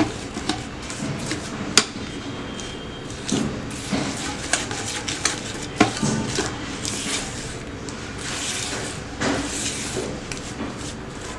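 A spoon stirring and scraping butter and powdered sugar together in a mixing bowl, with irregular rubbing and sharp knocks of the spoon against the bowl, two of them louder than the rest.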